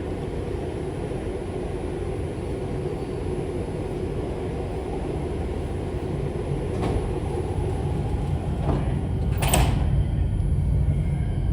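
New York City subway train rumbling in a station, growing louder in the last few seconds, with one short sharp hiss about nine and a half seconds in.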